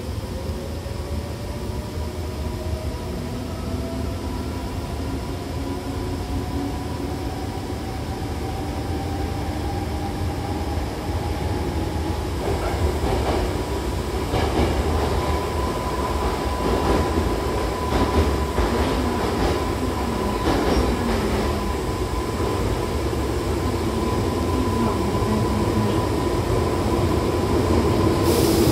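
Hankyu Kobe Line electric train heard from inside the carriage. The traction motors whine, rising steadily in pitch as the train accelerates for about twelve seconds. It then runs on through the tunnel with a steady whine, wheels clicking over rail joints and a rumble that grows louder toward the end.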